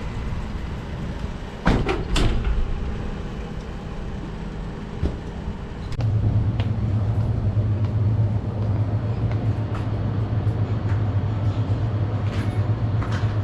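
City street riding noise on a bicycle: two sharp rattling clicks about two seconds in, over a low rumble. About six seconds in, a louder, steady low rumble with a fast flutter takes over.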